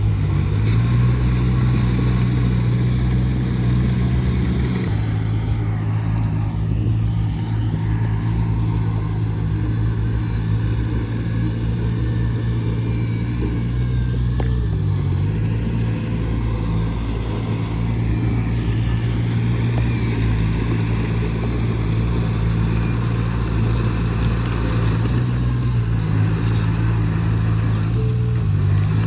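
Heavy diesel engine of earthmoving machinery running steadily under load, with brief dips and recoveries in engine speed about halfway through and near the end.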